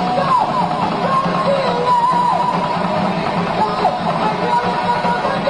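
Live rock/heavy metal band playing loudly, with electric guitar over bass and drums. A lead line slides down in pitch again and again.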